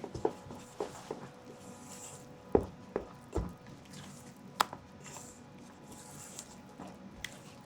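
Scattered knocks and clicks of kitchen tools and containers being handled while baking, the sharpest about two and a half and four and a half seconds in, over a faint steady hum.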